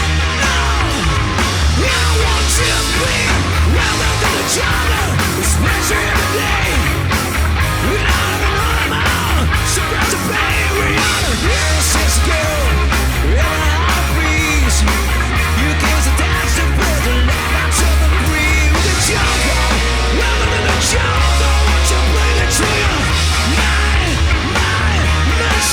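A rock band playing live at full volume: distorted electric guitars, bass and drums with frequent cymbal crashes, and a singer's voice at times.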